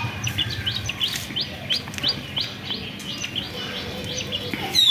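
A small bird chirping steadily, short high notes repeated about three times a second, with a louder call sliding down in pitch near the end.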